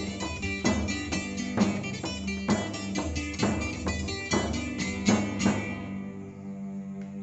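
Acoustic guitar strumming the closing bars of a folk song in a steady rhythm, ending on a final chord about five and a half seconds in that rings out and fades.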